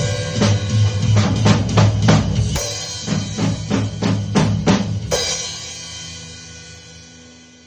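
Drum kit played along with a rock backing track: steady beats, then a run of quick drum strokes ending in one last strong hit about five seconds in, after which the cymbal and the backing track's held last note ring away and fade.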